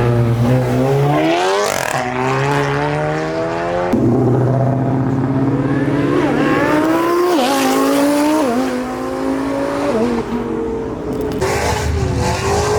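High-performance car engines accelerating hard as cars pull away. The engine note climbs and drops back at each upshift, about three times in the middle, and another car's engine comes in near the end.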